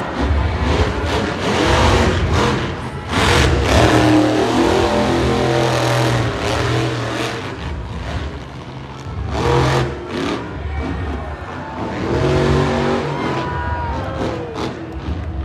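Monster truck engines revving hard, the pitch climbing and falling several times.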